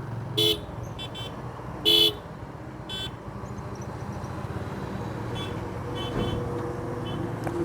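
Road traffic with a steady engine rumble and short vehicle horn toots; the two loudest come about half a second and two seconds in, with several fainter toots after.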